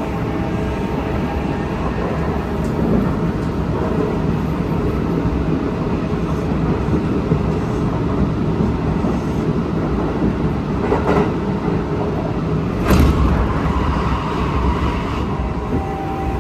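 Kintetsu Osaka Line train running, with steady rumble of wheels on track and the steady tones of its Hitachi GTO inverter traction motors, which fade in the middle and return near the end. A single loud knock comes about three-quarters of the way through.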